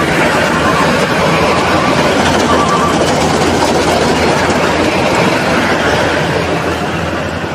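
Rice combine harvester running steadily as it harvests, its engine and threshing machinery making a constant loud mechanical noise with a low hum, easing slightly near the end.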